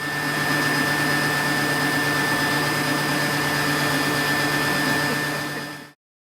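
Hooded hair dryer running on warm heat: a steady blower rush with a steady high whine and a low hum. It cuts off near the end.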